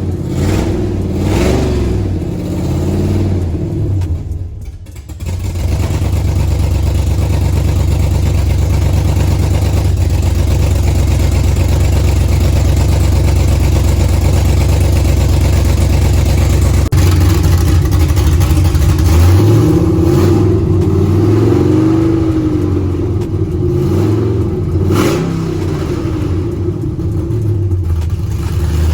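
Chevrolet Caprice PPV engine with a new camshaft, revved several times near the start, dipping briefly, then running steadily before another series of revs in the second half. It is running through an exhaust clogged with pieces of a broken-apart catalytic converter.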